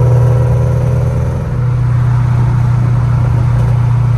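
A car engine running at a steady speed with a loud low drone. Its stack of tones fades after about a second and a half, leaving a steady rumble that cuts off suddenly.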